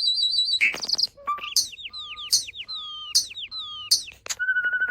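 Starling vocalizing: a trilled high whistle, some clicks, then about four repeated notes that each slide downward over a steady lower tone. About four seconds in, a wavering whistle sounds over a fast clicking rattle.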